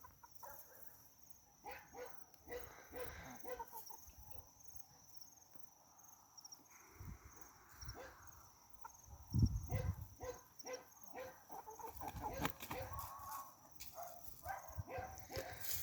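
Free-range chickens calling softly in short clucks, with scattered clicks and rustling.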